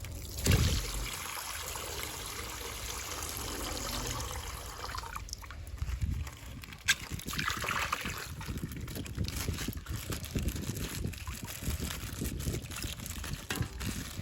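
Coloured water trickling and pouring out of a punctured plastic ice-pack bag, after a thump at the start. From about five seconds in, the water thins out and the wet bag is handled, with a sharp click about seven seconds in.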